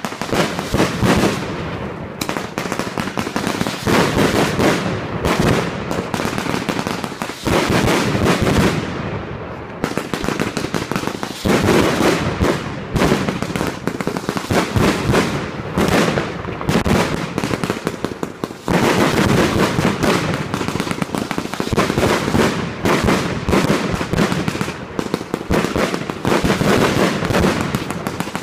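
Fireworks going off in a dense, continuous barrage of rapid cracks and bangs. The pattern changes abruptly several times as one sequence of shots gives way to the next.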